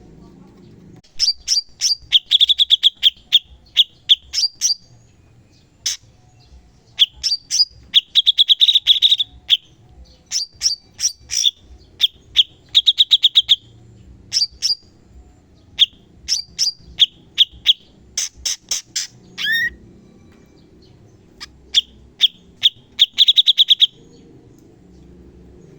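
Cucak cungkok song: phrases of sharp, fast-falling chirps and rapid trills, repeated with short pauses between them, over a faint low hum.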